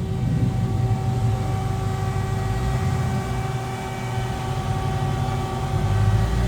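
Car engine running steadily at low speed, a low rumble with a steady hum over it.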